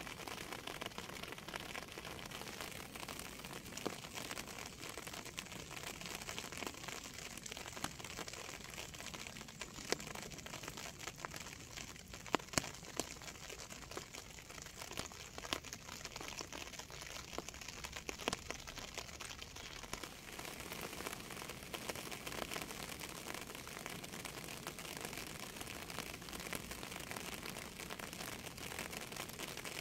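Steady rain with close drops tapping irregularly on a surface, a few louder taps near the middle.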